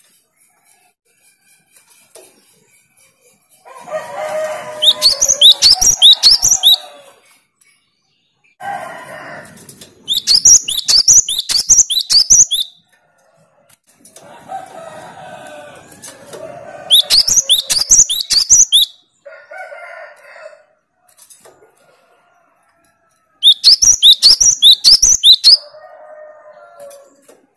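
Cinereous tit (gelatik batu) singing rapid bursts of high, upward-sweeping notes, each burst about two seconds long, four times, with lower, harsher chattering calls between the bursts.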